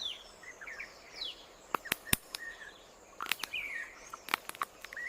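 Forest ambience of birds chirping in short, quick rising and falling notes, with sharp clicks or snaps about two seconds in and again after three and four seconds.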